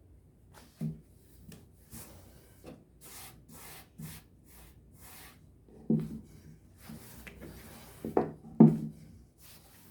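Kitchen handling on a wooden surface: short rubbing scrapes in a run, and a few dull knocks, the loudest two close together near the end.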